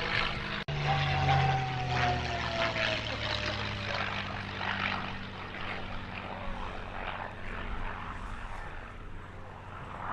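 Propeller aircraft with a Rolls-Royce Merlin V12, a P-51 Mustang, flying past. The engine's drone drops in pitch as the aircraft goes by, then slowly fades.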